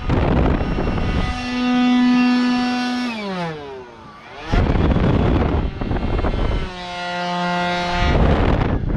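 Bursts of rushing, blowing air alternate with a held siren-like wail. The wail holds, then slides down in pitch about three seconds in; a second, lower wail holds briefly near the end.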